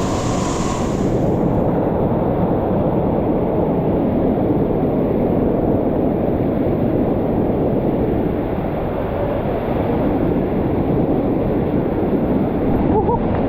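Waterfall water pouring steadily, a dense rushing noise heavy in the low range, with a brief brighter hiss right at the start.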